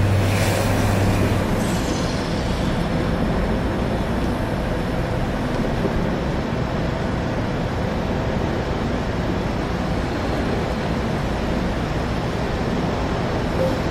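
Automated truck wash equipment running: a steady rushing noise throughout, with a strong low hum that stops about a second and a half in.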